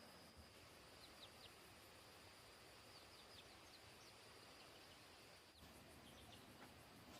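Near silence with a few faint, short, high bird chirps scattered through, over a faint steady high-pitched tone that stops about three quarters of the way through.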